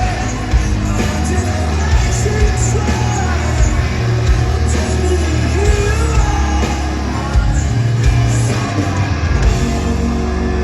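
Live rock band playing loudly with a singer, heard from the crowd in a large concert hall. Regular drum hits and a steady bass run under the vocal line, which gives way to a held chord near the end.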